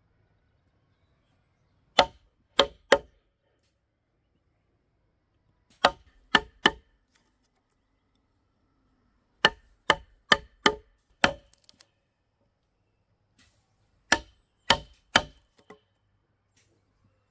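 Sharp blows of a hand tool striking wood, in groups of three to six quick strikes with pauses of a few seconds between.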